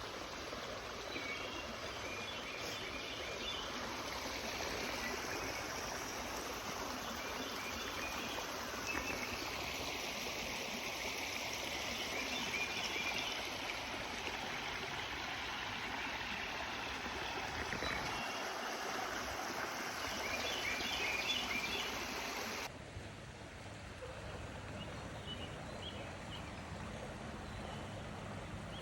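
Steady rush of running water, with a few short bouts of chirping calls. The sound drops abruptly and turns quieter about 23 seconds in.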